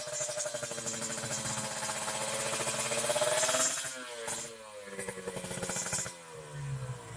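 Motorcycle engine revving through a stainless-steel aftermarket exhaust. The revs rise and are held up for about three and a half seconds, then drop and fall away toward idle.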